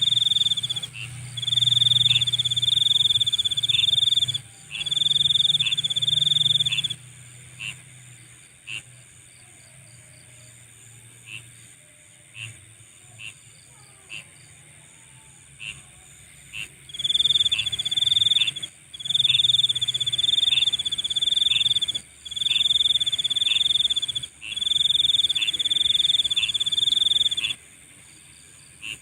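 Nighttime insect chorus: loud trilling calls in phrases of a second or two, falling back in the middle to single short chirps for about ten seconds before the trilling resumes, over a steady high-pitched buzz.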